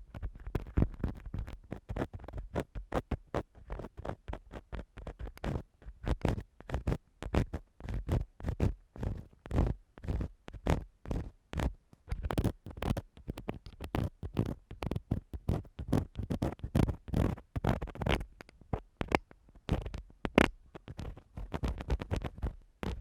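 Ear-cleaning tool scratching and rubbing against a microphone in quick, irregular strokes, several a second, with a deep, close rumble from the mic contact.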